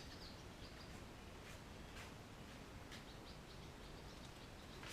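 Quiet background ambience with a few faint, short, high chirps or ticks scattered through it.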